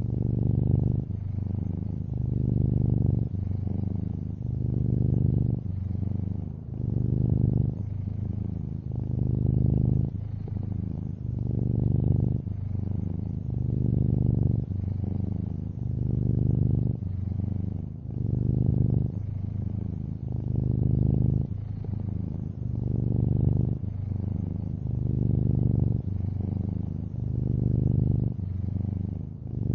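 Long-haired orange tabby cat purring steadily, the purr swelling and fading with each breath about every two seconds.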